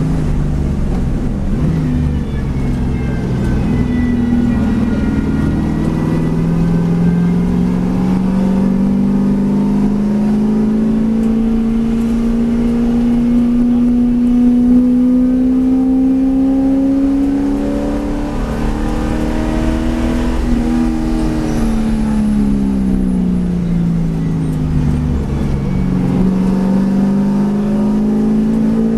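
V8 race car engine running hard on track, its pitch climbing slowly for much of the time, then falling about two-thirds of the way through as the car slows, and climbing again near the end.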